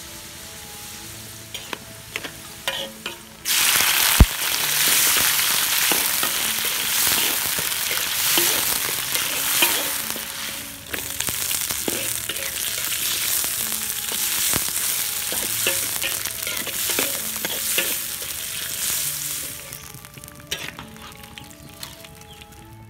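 Food frying in hot oil in a metal wok, with a metal spatula clicking and scraping against the pan. The sizzling is quieter at first, turns suddenly loud about three and a half seconds in as red chilies and shallots fry, and dies down near the end.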